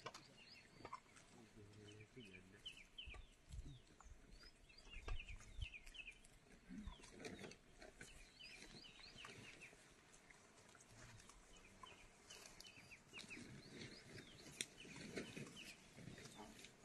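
Faint chirping of birds: many short, falling chirps, with a few low sounds among them.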